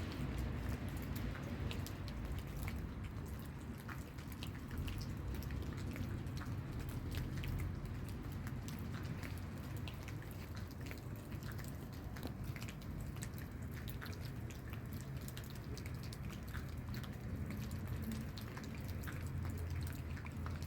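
Rain falling, with many scattered sharp drops ticking irregularly over a steady low rumble.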